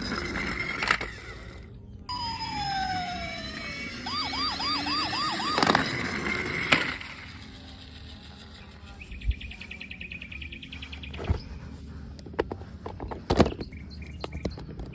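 Electronic toy police-car siren wailing in short warbling runs, with a falling whistle-like glide and several sharp clicks and knocks; later a fast rattling electronic pattern.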